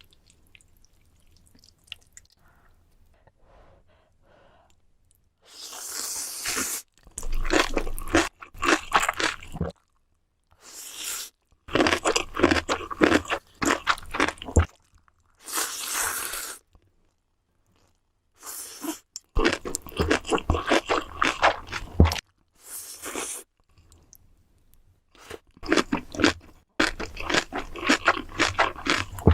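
Close-miked eating sounds: a person biting and chewing crunchy food. It comes in repeated bouts of dense crunching that start about five seconds in, with short complete breaks between them.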